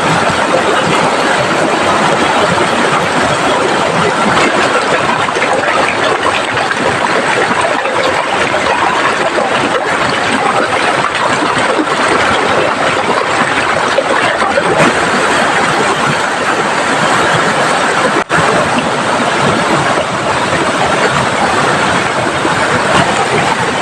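Heavy tropical downpour together with a swollen, fast-flowing river: a loud, steady rushing noise.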